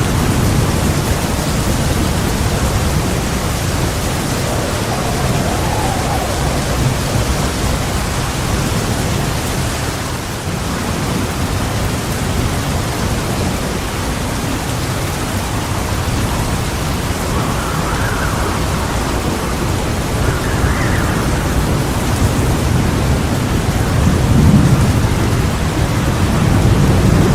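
Heavy rain falling steadily, with low rolling thunder rumbling under it and swelling louder near the end.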